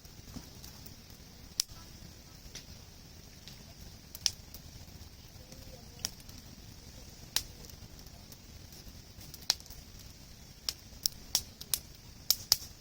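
Wood campfire crackling: sharp, irregular pops from the burning logs over a steady hiss, the pops coming faster near the end.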